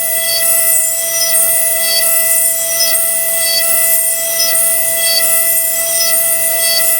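Versamill 5X200 five-axis dental milling machine wet-grinding an e.max lithium disilicate ceramic block: a steady high-pitched spindle whine over a constant hiss of coolant spray, with short higher blips recurring about every half second to second as the bur works the block.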